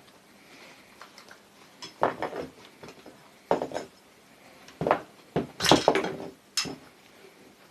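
Metal parts and tools clinking and knocking on a workbench while a sewing machine motor is taken apart: a string of sharp clinks, loudest in a quick cluster about six seconds in.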